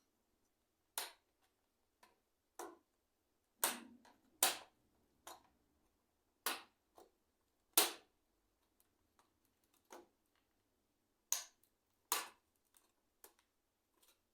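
Irregular sharp clicks and knocks of hard plastic keyboard parts being handled while the keyboard is taken apart, about a dozen in all.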